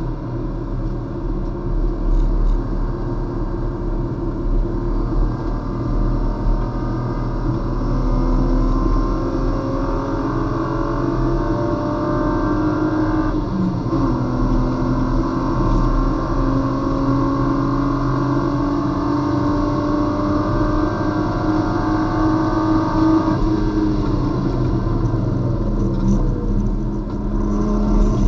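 Race car engine heard from inside the cabin, pulling hard at full throttle with its pitch rising, a short break and step down in pitch about halfway through as it changes up a gear, then rising again. A few seconds before the end the pitch falls as the car slows, and it picks up again at the very end.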